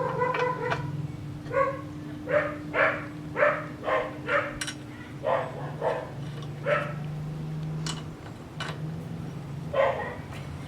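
An animal giving a run of short, pitched calls, about a dozen in quick succession with a last one near the end, over a steady low hum.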